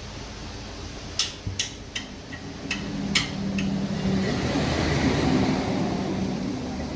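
About half a dozen sharp clinks and knocks of tools and parts being handled during a brake pad job. They are followed by a swelling rush of mechanical noise that rises, then eases near the end.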